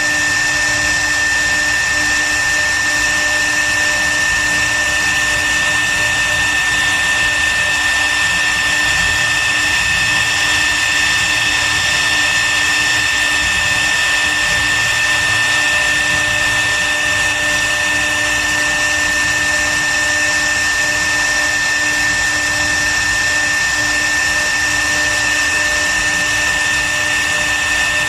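CNC wood router spindle running at a steady speed, giving a constant high-pitched whine over a rushing machine noise.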